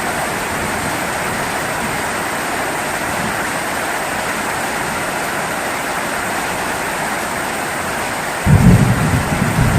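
Steady heavy rain hissing. About eight and a half seconds in, a loud low rumble of thunder breaks in and carries on to the end.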